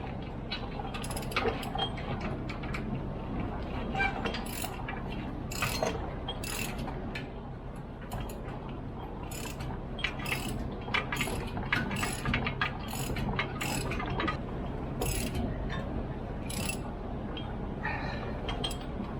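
Hand tools working on metal: irregular sharp clicks and clinks, some in quick runs like a ratchet wrench, over a steady low hum.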